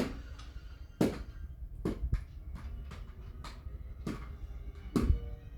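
A string of separate sharp knocks and thumps, roughly one a second at irregular spacing, over a low rumble, the loudest near the start, about a second in, and near the end.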